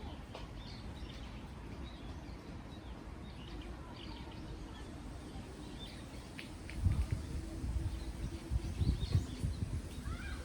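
Small birds chirping and twittering over a steady low rush of wind. From about seven seconds in, gusts of wind buffet the microphone in low thumps.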